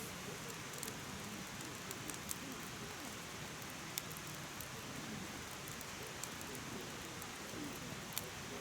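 Firewood burning in a mesh fire pit: a steady soft hiss of flame with sharp crackles and pops here and there, the loudest about four seconds in and again near the end.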